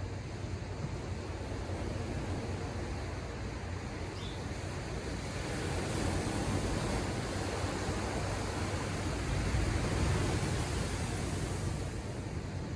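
Ocean surf: a wave's rush swells about halfway through and falls away near the end, over a steady low rumble of the sea.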